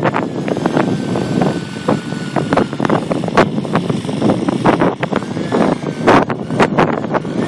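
T-Rex 600 Nitro RC helicopter running in flight: a faint, steady engine and rotor whine that drifts in pitch, half buried under heavy wind gusts buffeting the microphone.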